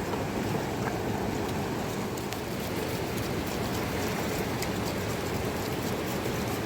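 Rushing mountain river: a steady, even wash of fast-flowing water.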